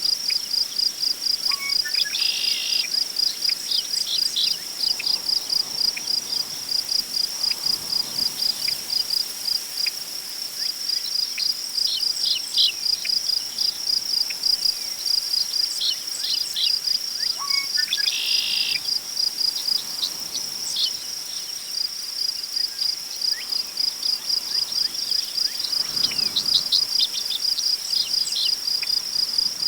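Crickets chirping in a steady, rapid, even pulse, with scattered short bird calls, the same call coming twice about two and eighteen seconds in. Faint swells of wind in tall prairie grass come and go beneath.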